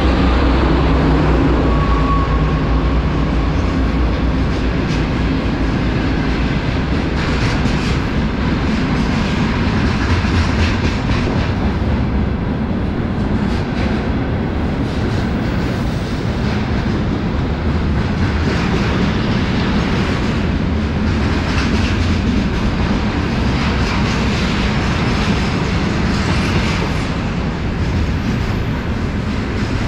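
A 2M62 diesel locomotive, with two-stroke V12 diesel engines, drones past close by for the first couple of seconds. Then a long container train rolls past steadily, its wheels rumbling and clacking over the rail joints.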